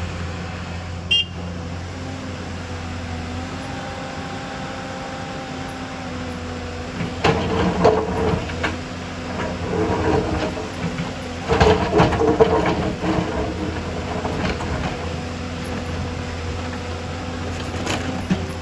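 Excavator's diesel engine running steadily, with loud irregular clattering and scraping of rock and soil from about seven to thirteen seconds in.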